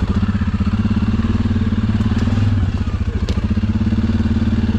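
Single-cylinder four-stroke ATV engine running steadily, with a couple of brief sharp clicks about two and three seconds in.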